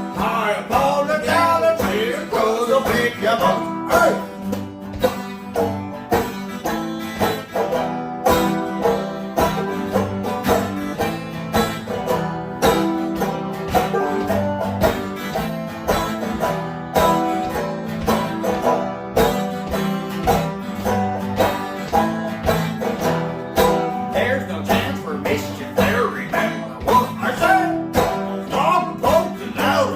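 Instrumental break of a folk-punk song: banjo picking a quick melody over strummed acoustic guitar, with a steady beat.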